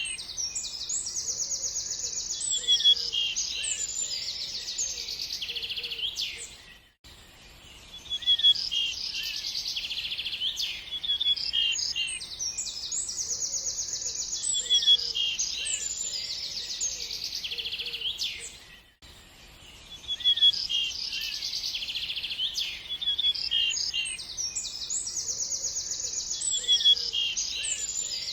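Small songbirds chirping and singing fast trills. The same stretch of birdsong repeats about every twelve seconds, with a brief drop in loudness at each repeat.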